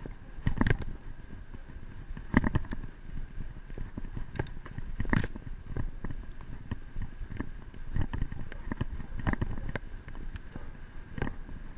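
Bicycle being ridden, with irregular knocks and rattles from the frame and parts over a low rumble.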